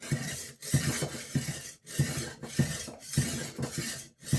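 Rolling knife sharpener being rolled back and forth along a kitchen knife's edge: a rhythmic series of about seven scraping passes, one every half second or so, with a light clink as each pass turns.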